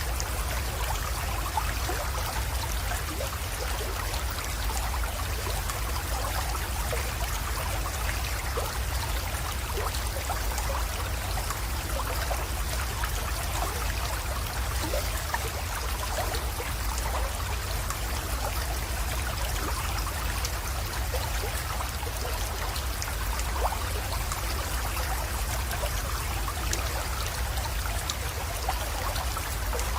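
Small mountain creek water trickling and splashing steadily into a pond, many small bright splashes, with a steady low rumble underneath.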